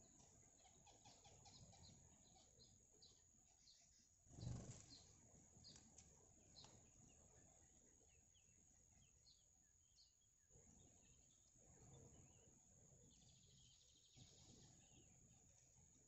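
Faint, quick high chirps of small birds, several a second through the first few seconds and scattered after, over a steady thin high-pitched whine. A dull thump about four and a half seconds in, and a short burst of high twittering near the end.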